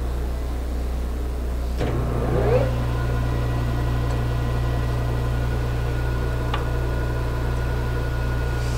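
Metal lathe running with a steady hum. About two seconds in, a clunk and a short rising whine as it speeds up, then steady running with a whine of several tones and a single light tick near the end.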